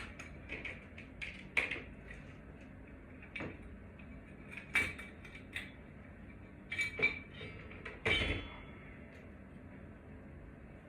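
Irregular clinks and knocks of small metal fan hardware and a screwdriver being handled and set down, with a few louder clanks spread through.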